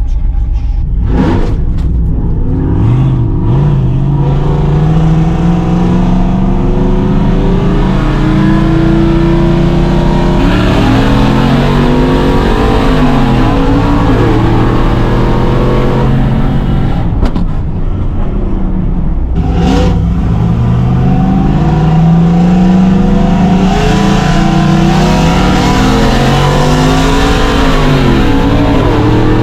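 LS V8 truck engine accelerating hard, its pitch climbing and then dropping at each gear change, repeated over several pulls.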